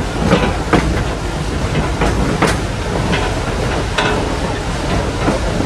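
Old steam-hauled train rolling along the track, heard on board: a steady rumble with irregular clanks and clicks from the wheels and running gear.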